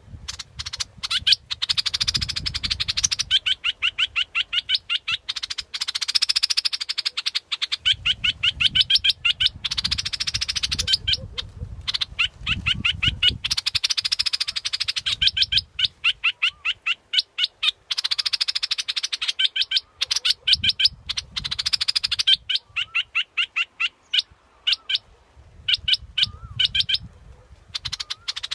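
A bulbul the uploader calls นกดอกแตง, its calls played as a decoy lure recording: long runs of rapid, sharp repeated notes, phrase after phrase with short gaps. A low rumble comes and goes underneath.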